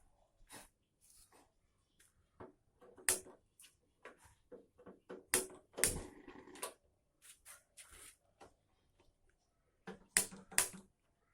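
Irregular sharp clicks and light knocks of a gas stove's knobs and burner parts being handled while its burners are tested, with a short rattle about six seconds in and two sharp clicks near the end.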